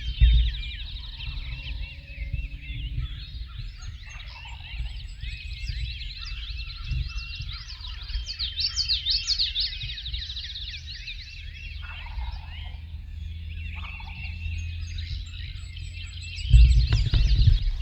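Wild turkey gobbling, over a dense chorus of songbirds singing. A louder low rumbling bump comes near the end.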